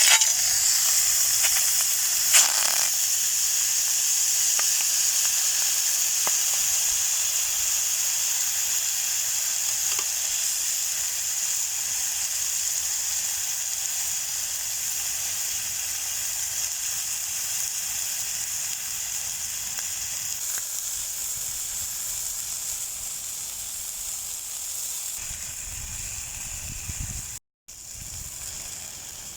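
Marinated chicken thigh sizzling in a frying pan, starting abruptly and loud, then slowly dying down. A sharp click about two seconds in, and a brief break near the end, after which the sizzling goes on more quietly.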